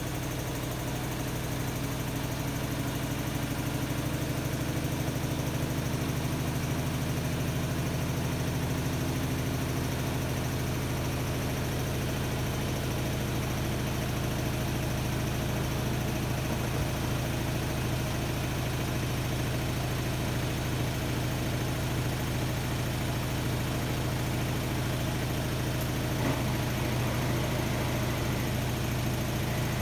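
Hotpoint-Ariston Aqualtis AQD972F washer-dryer running with a steady low hum, with one faint tap near the end.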